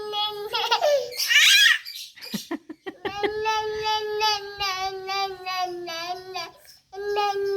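A young child's long, drawn-out whining cry, held on one pitch with a slight waver, sounding like a bleating goat. About a second in it jumps to a high squeal that falls away, then the long wail starts again and breaks off briefly near the end.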